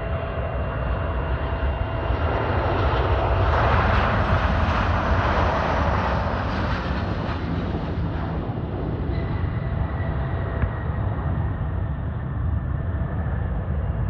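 Boeing 737-800 airliner's CFM56 jet engines on its arrival at the airport, the jet noise swelling to a peak and then easing as it goes by. A thin engine whine falls slowly in pitch in the second half.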